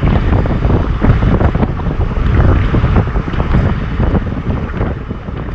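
Heavy wind buffeting the microphone: a loud, gusty rush with a deep rumble underneath.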